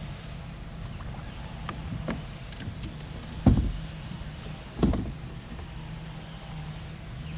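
A vehicle's engine idling with a steady low rumble, broken by two heavy thumps about a second and a half apart and a few light knocks.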